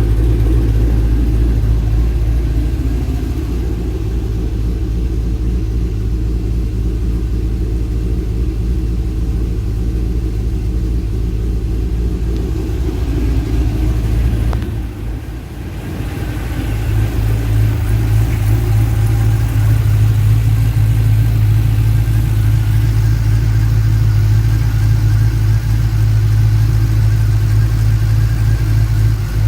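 Twin-turbo GTO's engine idling with a steady low rumble. About halfway through it briefly goes quieter, then settles into a louder, even drone.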